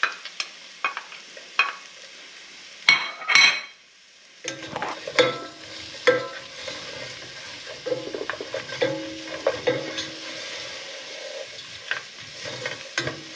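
Onions added to pork, ginger and garlic frying in hot oil in a pot: light clicks, then two ringing clinks of a metal spoon about three seconds in. From about four and a half seconds the pot sizzles steadily while a spatula scrapes and stirs through it.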